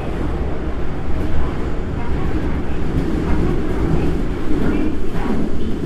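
Toei 5300-series subway train running in the tunnel, a steady rumble of wheels on rail with a faint steady motor hum.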